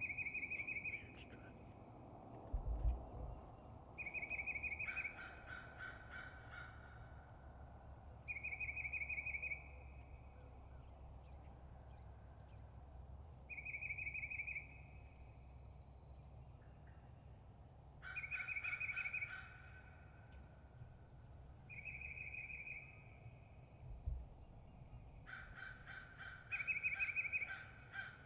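Wild turkey gobbler gobbling three times, each a rattling gobble of one to two seconds. A short, high, trilled call repeats every four or five seconds between the gobbles, and there is a dull thump about three seconds in.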